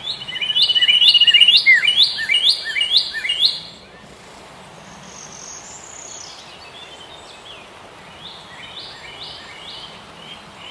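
Birds singing: a loud run of about seven quick repeated chirps, roughly two a second, over a steady high whistle-like tone, stopping a little under four seconds in. Fainter chirping follows over a soft background hiss.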